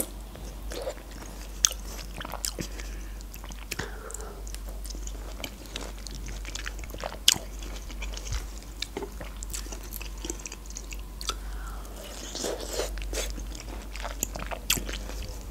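A person biting into and chewing pink grapefruit segments close to the microphone: short wet mouth clicks and smacks, scattered unevenly.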